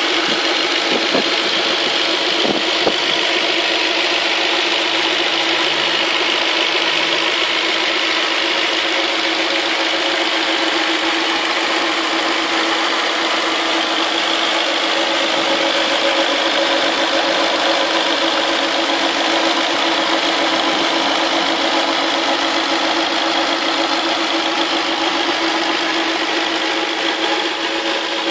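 Audi S4's 4.2-litre V8 idling steadily, heard close up at the front of the engine, with the fuel injectors ticking rapidly. Under it runs a steady hum from the belt drive that is not really a squeak yet, which the owner suspects comes from a failing bearing in the belt tensioner pulley.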